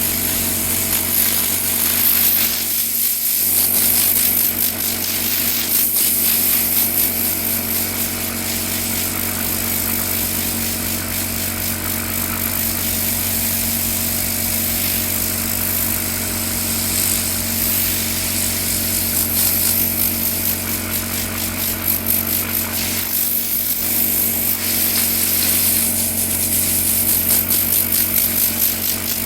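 Electric power tool motor running steadily with a high hiss, easing off briefly twice.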